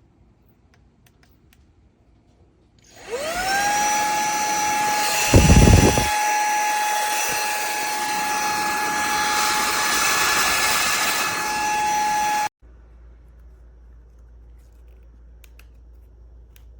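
Cordless handheld vacuum's brushless motor spinning up with a rising whine, running steadily with a high whine and rushing air, then switching off abruptly near the end. About two seconds after it starts there is a brief loud low rush of air.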